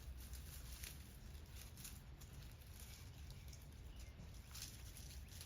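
Faint rustling and light crackling of a dry brush pile as kittens climb over it, scattered small clicks over a steady low background rumble.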